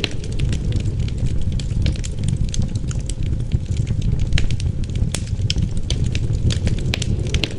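Wood fire crackling, with frequent sharp, irregular pops over a steady low rush of wind.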